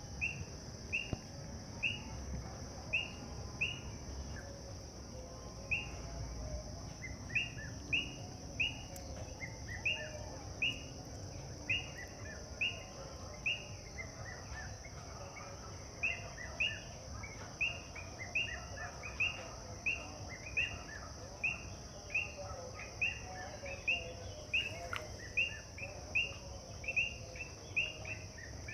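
Birds calling with short, slightly falling high notes, repeated about once or twice a second and sometimes answered by lower notes, over a steady high-pitched hiss.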